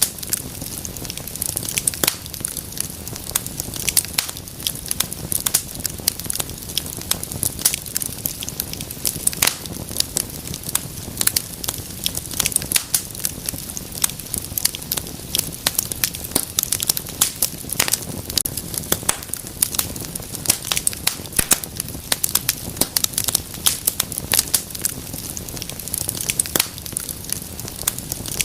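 Wood fire burning with dense, irregular crackles and pops over a low, steady rumble of flame.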